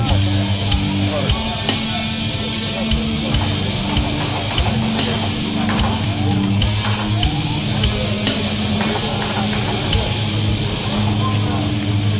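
Death crust metal band playing: a heavy distorted guitar and bass riff over a drum kit, with cymbal crashes about once a second.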